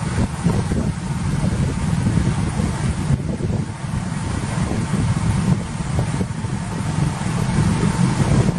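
Wind buffeting the microphone as a low, irregular, steady rumble.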